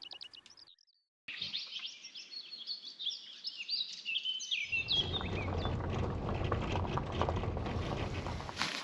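Songbirds singing, with many quick chirping and warbling notes. About halfway through, a steady low rushing noise comes in beneath the song.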